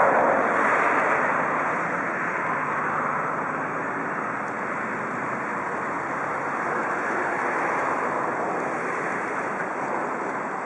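Steady rushing rumble of a train rolling along the tracks, with no horn or engine note. It is loudest at the start and eases off a little.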